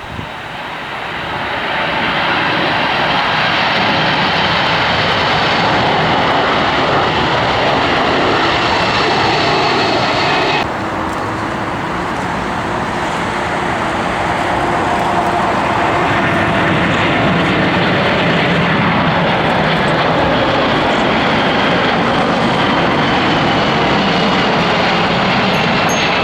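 Cargo aircraft's engines running loud and steady as the plane passes, rising over the first couple of seconds, with a high whine that slides slowly downward. The sound changes abruptly about ten seconds in.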